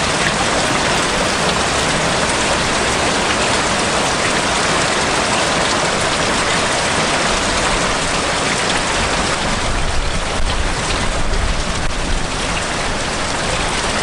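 Glacial meltwater rushing and splashing close by: a loud, steady, even roar of water.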